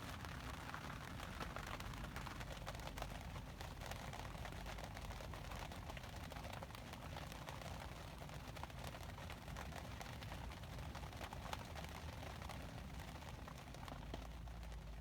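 Faint steady background noise with scattered light clicks and ticks.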